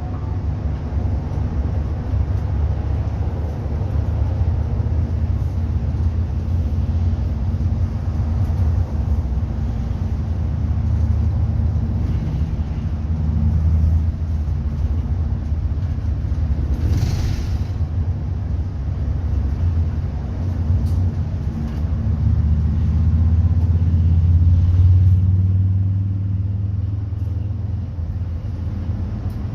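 Steady low rumble of a bus's engine and road noise, heard from inside the moving bus, with a short hiss about seventeen seconds in. The rumble swells a little near the end, then eases.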